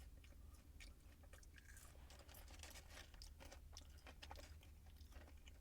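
A person chewing food quietly on a close microphone, with many small irregular mouth clicks and soft crunches.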